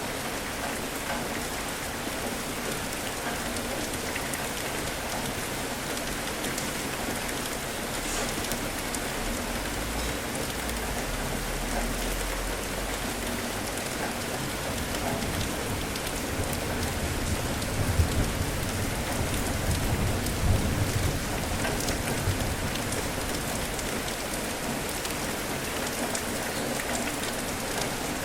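Steady, heavy rain pattering on surfaces. Deep rumbles of thunder come in twice, briefly around a third of the way through and more strongly past the middle.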